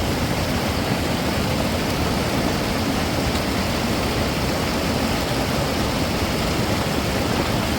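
Heavy rain falling, a steady, even hiss with no distinct strokes.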